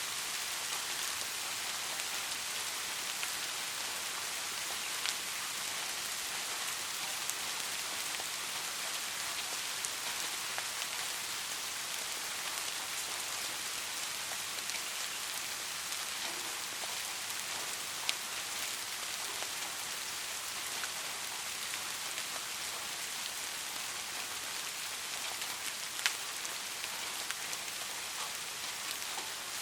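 Steady rain falling, an even hiss of many drops with a few sharper single drop ticks now and then.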